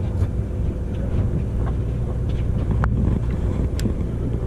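Steady low rumble of the sportfishing boat with wind buffeting the microphone, and a couple of light sharp ticks near the end.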